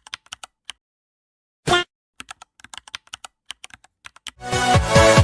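Computer keyboard typing sound effect: quick, irregular key clicks, with one short louder pitched blip near the middle. About four seconds in, loud electronic music cuts in, with sliding pitch sweeps.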